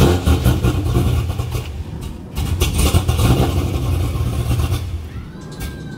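Pontiac GTO's 6.0 L LS2 V8, just fitted with a bigger cam, catching and running on its first start, with a dip in the running about two seconds in. The engine dies down near the end as it stalls.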